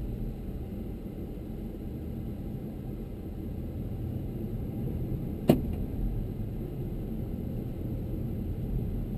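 Low steady rumble of the Audi S7 heard inside its closed cabin, with a single sharp click about halfway through.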